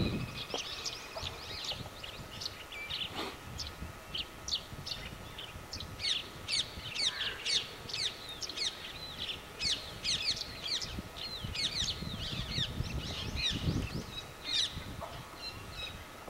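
Birds calling, with a dense run of short, sharp, downward-sliding chirps, and some low rumbling here and there.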